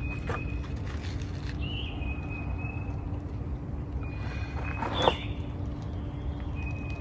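Outdoor ambience: birds calling with high held whistled notes and a few quick falling calls, the loudest about five seconds in, over a low steady rumble.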